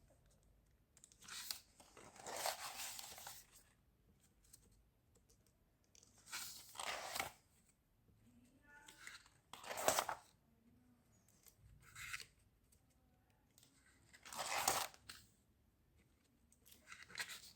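Paper rustling in short swishes, about seven of them a few seconds apart, like pages being turned or torn.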